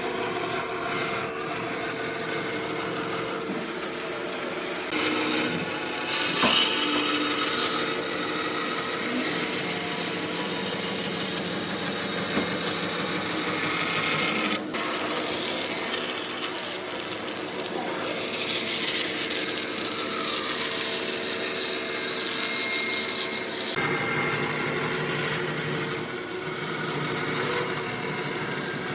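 A power tool working wood, running steadily with a constant high whine. The noise changes character several times as the work goes on.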